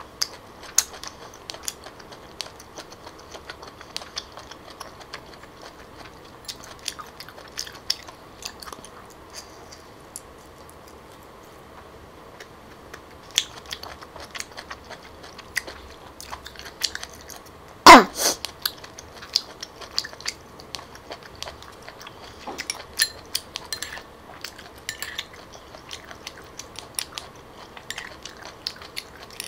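Close-up chewing and mouth sounds of a person eating chewy grilled cockle meat, with scattered light clicks and taps of fingers, shells and a spoon. A single much louder sharp clack about two-thirds of the way through.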